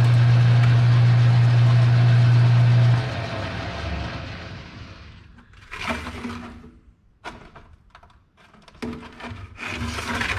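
An electric shop machine running with a strong steady hum, switched off about three seconds in and winding down over the next two seconds. Then come scattered clatter and knocks of parts being handled.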